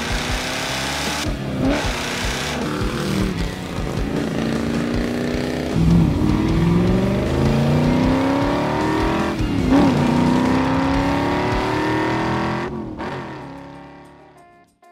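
1994 Chevrolet Corvette's 5.7 L LT1 V8 accelerating hard. Its revs climb in long rising sweeps and drop back sharply several times as it shifts up, and the sound fades away near the end.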